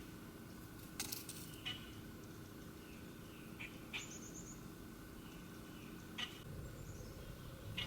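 Wild birds calling: scattered short, sharp chip notes, a brief high trill about four seconds in, and a few high falling notes near the end, over a low outdoor background rumble.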